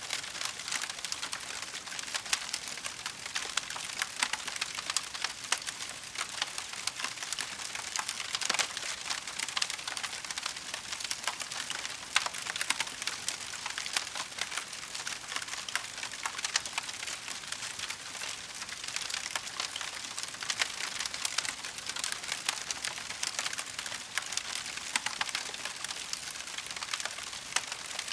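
Burning wood crackling in a fireplace: a dense, steady run of small snaps and pops over a soft hiss, with a few louder cracks now and then.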